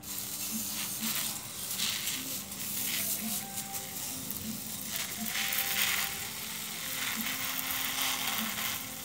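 Hand-pumped pressure sprayer spraying a fine mist of water, a continuous hiss that swells and eases every second or so.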